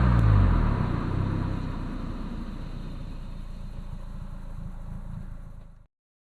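Renault Clio III 1.6 16V four-cylinder engine through a Supersprint centre pipe and rear exhaust, revs falling away in the first second and settling into a low, steady idle rumble. The sound cuts off suddenly near the end.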